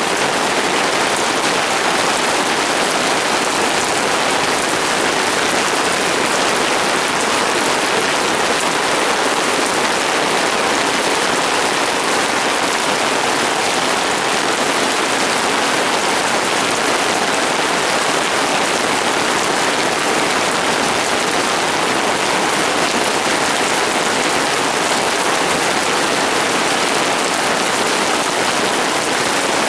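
Heavy rain pouring down steadily, hitting hard enough that the drops bounce off the ground.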